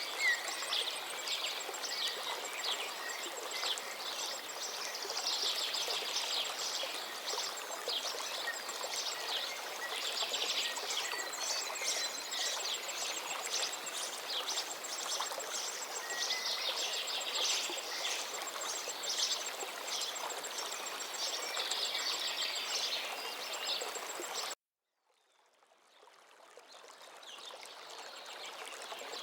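Steady rushing of a gently flowing forest river, with several songbirds singing over it in quick, high phrases. About 24 seconds in the sound cuts out abruptly to silence, then fades back in gradually.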